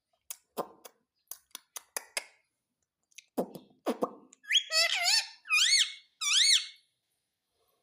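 Indian ringneck parakeet clicking several times, then giving a couple of short harsh notes and three loud squeaky calls that rise and fall in pitch in the second half.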